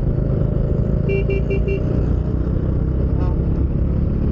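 Motorcycle riding noise picked up by a helmet-mounted mic: a steady engine and wind rumble. About a second in, a vehicle horn gives four quick short beeps.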